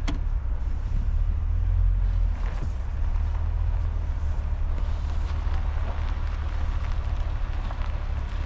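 A truck running, heard as a steady low rumble of engine and road noise, with a couple of clicks right at the start.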